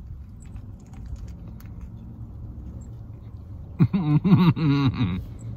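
A man chewing a big mouthful of burger with his mouth closed: faint wet mouth clicks over a low steady hum in a car cabin. Nearly four seconds in he hums a drawn-out, wavering "mmm" of enjoyment for about a second.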